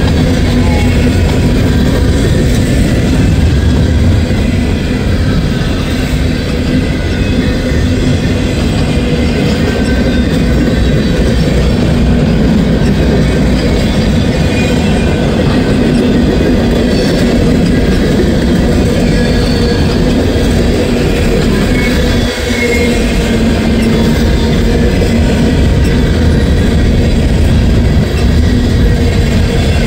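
Norfolk Southern freight train passing close by: a loud, steady noise of wheels running on the rails that holds for the whole stretch, with one brief dip about 22 seconds in.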